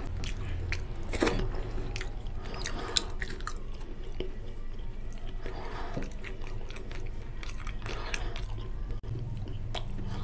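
Close-miked chewing and wet mouth smacking as soft, oily rice and curry are eaten by hand, with many short sticky clicks of lips and fingers. A steady low hum runs underneath.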